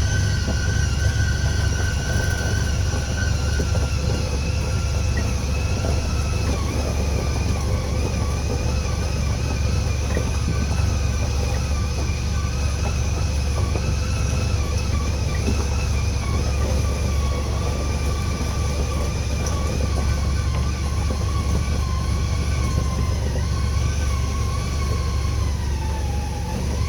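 Vehicle driving on a rough driveway: a steady low engine and road rumble with a thin whine that wavers in pitch and slides down near the end.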